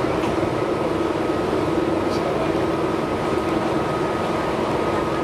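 Running noise inside a Tobu 6050 series electric train at speed: a steady rumble of wheels on rail with a faint steady whine above it, and one light tick about two seconds in.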